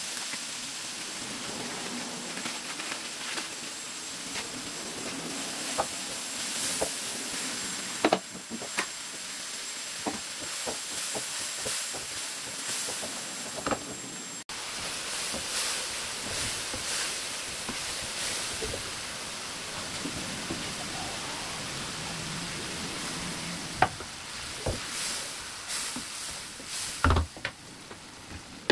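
Chicken pieces and tomato masala sizzling in a nonstick wok, with a steady frying hiss. A spatula scrapes and knocks against the pan as the food is stirred, in scattered clicks, the loudest near the end.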